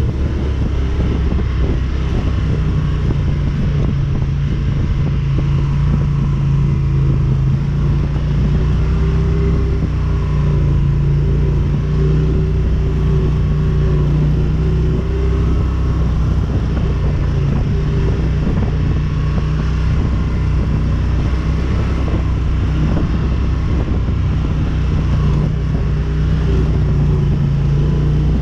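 ATV engine running at a steady pitch while riding, with a low rumble underneath.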